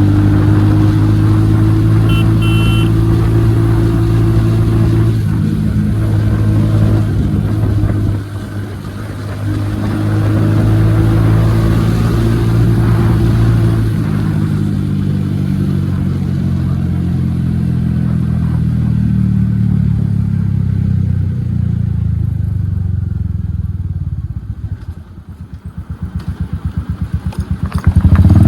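Royal Enfield Hunter 350's single-cylinder engine running loud through an aftermarket HK exhaust with the dB killer removed, the revs holding fairly steady with a brief dip about eight seconds in. Near the end the engine drops to slow, separate exhaust pulses, then is revved up again.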